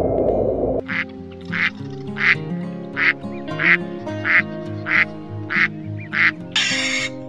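A duck quacking in a steady, evenly spaced series of about nine quacks, roughly one every two-thirds of a second, over background music. A hissing noise starts near the end.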